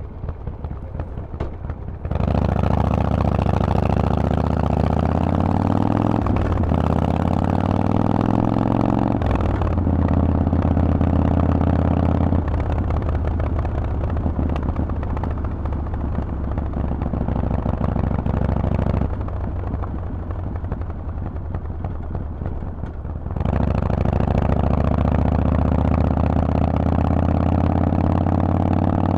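Harley-Davidson Forty-Eight's air-cooled V-twin running through a Vance & Hines aftermarket exhaust while riding. It pulls hard with rising pitch through the gears, with short dips at the shifts. It eases off for a few seconds and then accelerates again near the end.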